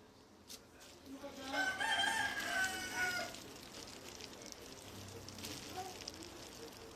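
A single pitched animal call lasting about two seconds, starting about a second in, followed by faint background noise.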